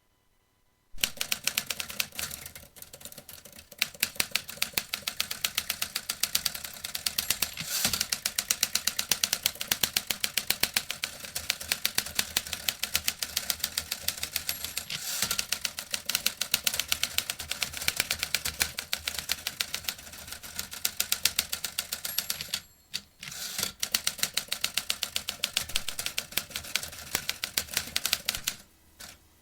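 Vintage typewriter typing: a fast, dense run of key strikes that starts about a second in, breaks off for a moment about three-quarters of the way through, then carries on and thins out near the end.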